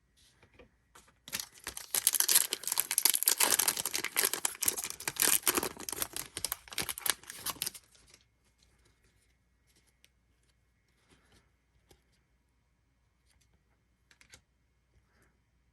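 A trading-card pack wrapper being torn open and crinkled for about six seconds, then faint clicks of cards being handled.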